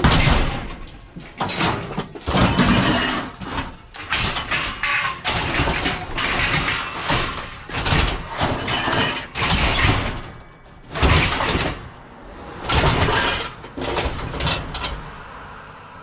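Loud, irregular scraping and banging of a metal household appliance being wrestled about, in bursts of a second or so that stop near the end.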